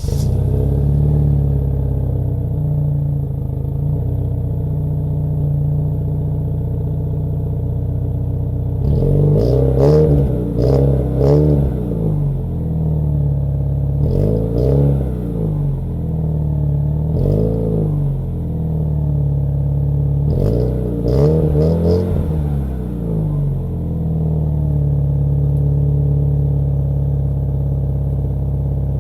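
Chevrolet car engine breathing through a 'cola de pato' (duck-tail) muffler, idling steadily, then blipped with short throttle revs in several clusters through the middle before settling back to idle.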